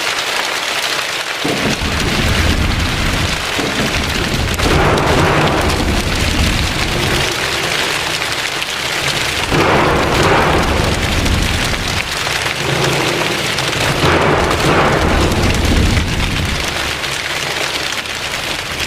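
Rainstorm sound made by a choir with their hands and feet: a patter of rain that swells and fades in waves, over a low rumble like thunder.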